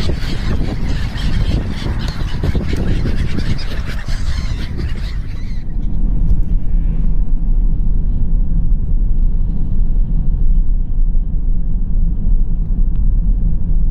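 A crowd of birds calls and squawks noisily. About five and a half seconds in, the calling cuts off suddenly, leaving a steady low rumble.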